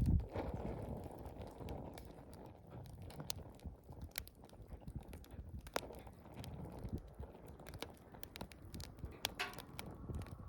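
Wood campfire crackling, with scattered sharp pops over a low rumble and a low thump right at the start.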